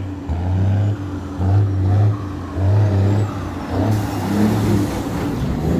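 Heavy truck engine running, its low rumble swelling and easing about once a second.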